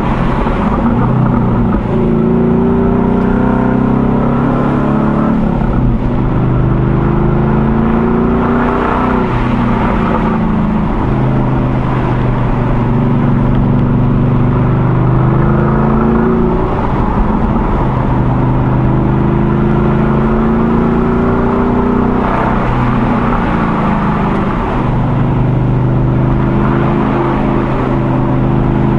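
Ford Mustang Boss 302's 5.0-litre V8 engine and exhaust under way, the revs rising and dropping back several times as the car accelerates and eases off, with wind and road noise on an outside-mounted microphone.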